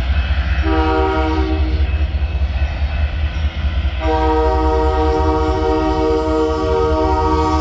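Train horn sounding a short blast and then, a few seconds later, a long held blast, its several notes sounding together as a chord, over the steady low rumble of the train.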